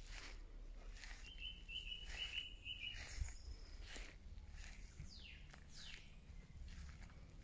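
Faint songbird calls over a low background rumble: a high, stuttering trill lasting about two seconds, starting about a second in, then a couple of short downward-sliding chirps near the end.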